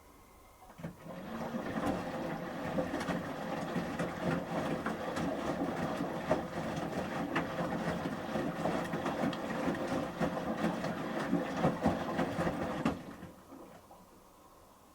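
Samsung Series 5+ washing machine drum turning in a wash tumble during the heating stage of a 30 °C shirts programme: motor hum with wet laundry and water sloshing and many small clicks and knocks. It starts about a second in, runs about twelve seconds, and fades to a stop near the end.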